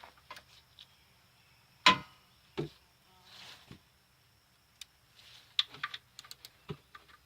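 Hand tools clicking and knocking against metal as a socket and wrench are handled under a car during an oil change: scattered irregular clicks, one sharp loud clack about two seconds in, and a quick run of small clicks near the end.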